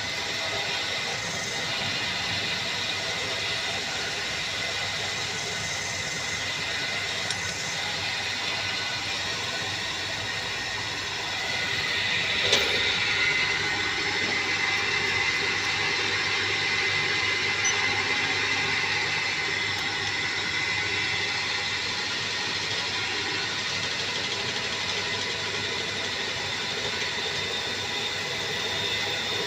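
PCD drilling machine running as it drills a flange, a steady mechanical noise with a high whine. It gets a little louder about eleven seconds in, with one sharp click soon after.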